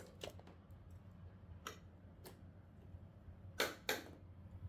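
Light clicks and taps of dismantled TV parts being handled, with two louder knocks in quick succession near the end.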